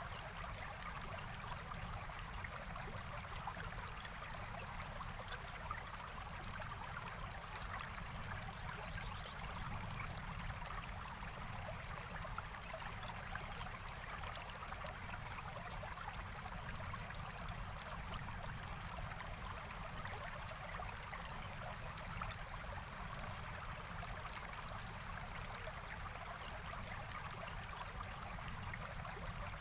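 Forest stream flowing steadily, a continuous even rush of water.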